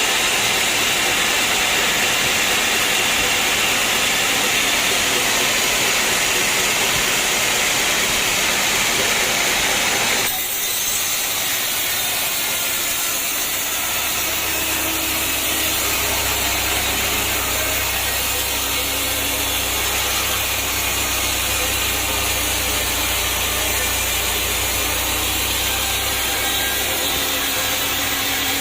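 Sawmill saw cutting through a teak log, a loud dense hiss, which stops abruptly about ten seconds in. A few seconds later a low steady machine hum comes in and runs on.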